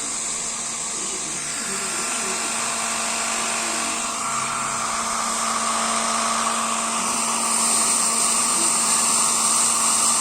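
Electric hot-air blower running steadily, a whirring motor with a rush of air and a steady hum, blowing warm air on a wet baby bird to warm it; it grows a little louder about halfway through.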